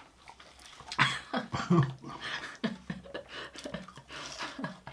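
Mukbang eating sounds: scattered mouth clicks and crunches of food, with a few short vocal sounds in between.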